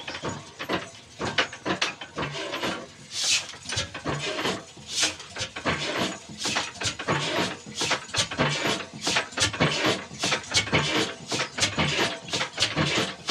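Old black single-cylinder desi diesel engine running slowly with a recurring low thump, under a constant irregular clatter of knocks and clicks. There are two short hissing bursts a few seconds in.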